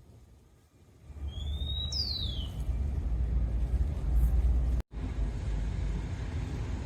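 A steady low rumble of outdoor ambience that starts about a second in, with a brief high sliding chirp around two seconds, broken by a sudden drop-out near five seconds.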